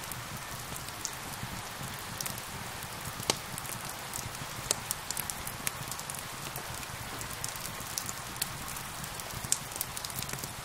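Steady rain hiss with a wood fire crackling over it: irregular sharp pops and snaps, one louder pop about three seconds in.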